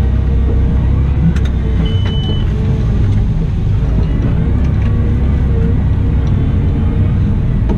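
Cat 972M XE wheel loader running steadily under a deep engine rumble with a constant whine over it; the lowest rumble eases off about two seconds in, as a short high tone sounds.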